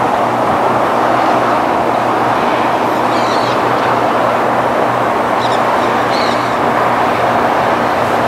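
Approaching diesel train, a steady drone and rumble with a low engine hum, still some distance off. A few short bird chirps come over it about three and five to six seconds in.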